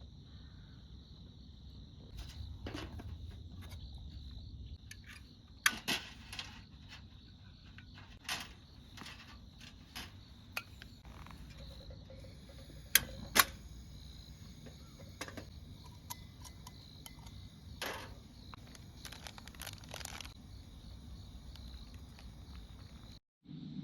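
Scattered sharp clicks and knocks of camp gear being handled while making coffee, over a steady high insect trill.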